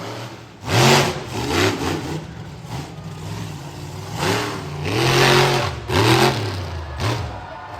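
Monster truck engine revving hard in repeated bursts, its pitch rising and falling back with each blip of the throttle.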